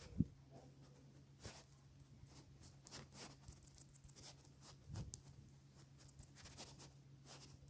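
Faint, scattered taps and clicks of fingertips on a phone touchscreen while typing in a name and emojis, over a steady low hum.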